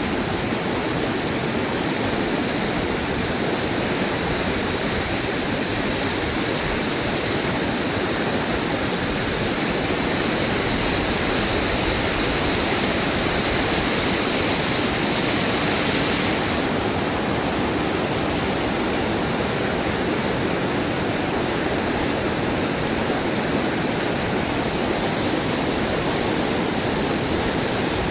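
Fast-flowing, risen river water rushing steadily. Its high hiss changes abruptly a few times.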